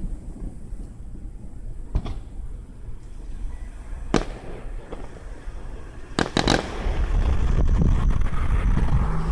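Fireworks bursting: single sharp bangs about two and four seconds in, a quick run of three cracks a little after six seconds, and deep rumbling booms that swell toward the end.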